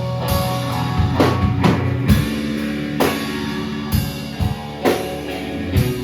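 Live rock band playing an instrumental stretch between sung lines: held guitar and bass notes under drum kit hits with cymbal crashes about once a second.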